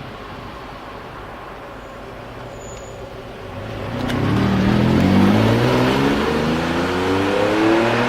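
Lamborghini Diablo V12 running at low revs, then about three and a half seconds in accelerating, its exhaust note rising steadily in pitch and getting louder.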